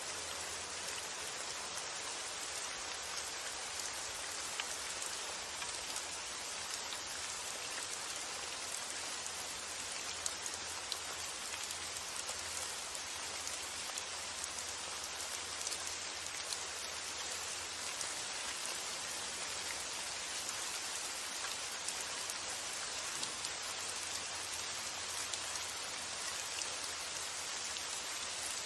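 Steady rain falling, an even hiss of dense drops with scattered sharper drop ticks.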